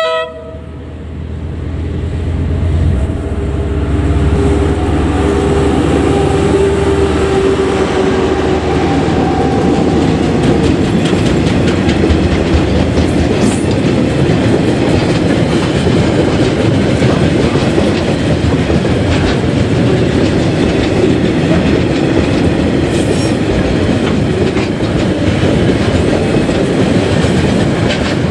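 A freight train's two diesel locomotives pass, with a short horn note right at the start, a low engine drone and a falling whine as they go by. Then the loaded log wagons roll past with a steady clickety-clack of wheels over the rail joints.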